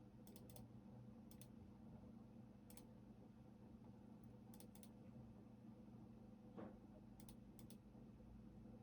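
Faint computer keyboard keystrokes, sparse and unhurried: single clicks and quick pairs a second or more apart, over a low steady hum. About six and a half seconds in comes a single duller, louder knock.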